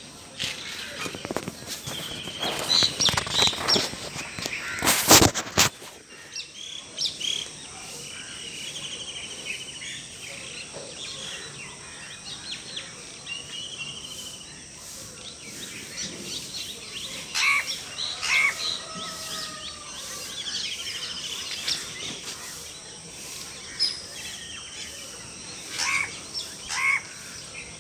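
Several birds chirping and calling, with short buzzy trills repeated every few seconds among scattered chirps. A loud sharp knock comes about five seconds in.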